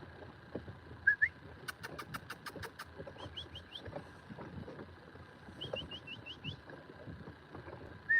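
A bird calling with short rising chirps, several in quick runs of four and six. About a second and a half in there is a quick run of about eight sharp clicks.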